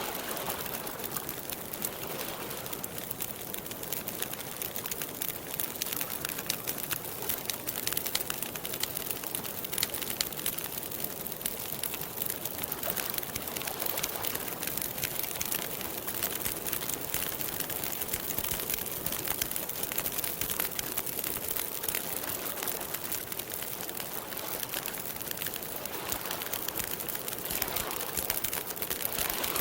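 Campfire crackling steadily, with a dense run of small irregular pops and snaps.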